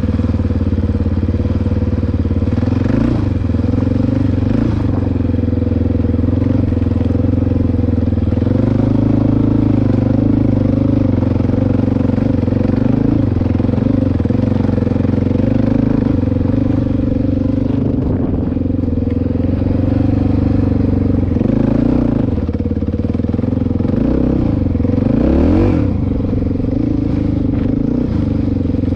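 Dirt bike engine running under way on a sandy trail, its pitch rising and falling with the throttle, with quick revs up about 22 and 25 seconds in.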